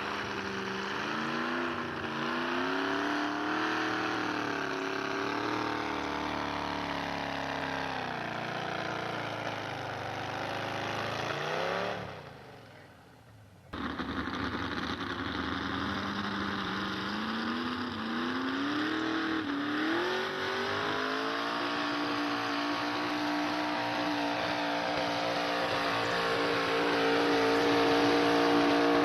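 Pulling truck's engine running hard under load, its pitch rising and falling, fading out about twelve seconds in. After a short gap a second engine run starts abruptly, climbs in pitch and holds at high revs, louder near the end.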